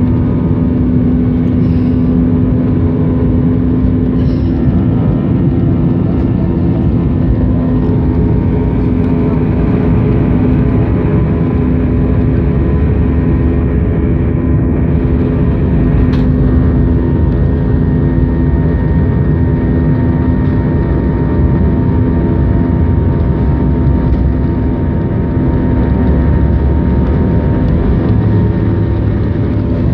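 Airbus A320's jet engines running loud during takeoff, heard inside the passenger cabin: a steady low rumble with several steady tones above it.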